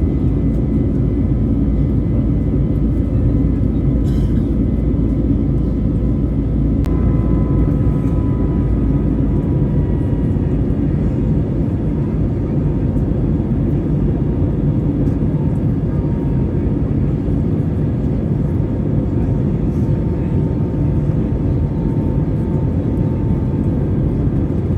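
Airbus A321neo jet engines running steadily under a dense, even rumble. A few faint engine tones above the rumble slowly drop in pitch.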